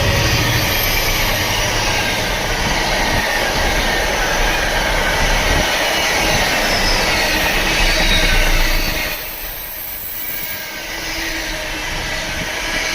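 Container wagons of a freight train rolling past at speed: a steady rush of steel wheels on rail, with faint high wheel squeal. It drops away briefly about nine seconds in, then picks up again.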